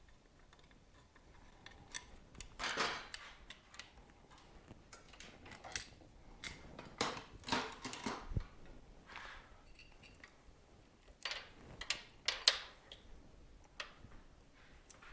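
Tools and metal parts clinking and knocking in an irregular scatter of short clicks and scrapes during a motorcycle teardown, with the loudest knock about twelve seconds in.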